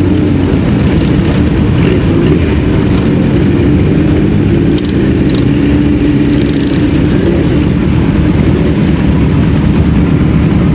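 Motorcycle engines running steadily and loudly, a low-pitched sound that holds with no revving.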